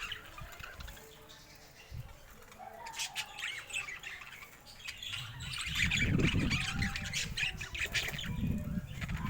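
Pet parakeets chirping and squawking in short, busy runs, with a low rustling rumble under the calls in the second half.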